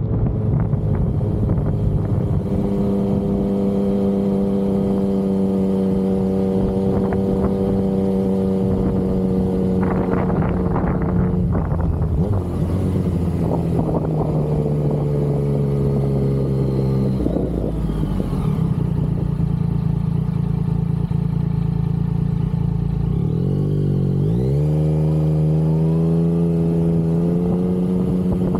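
Yamaha XSR900's three-cylinder engine running under way at a steady pitch, then easing off with the pitch falling gradually for several seconds. About three-quarters of the way in the pitch dips sharply and then climbs as the bike accelerates, rising again near the end.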